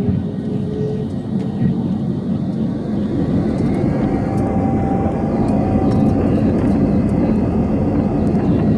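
Jet airliner engines running, a dense rumble with a faint whine that grows louder about three seconds in.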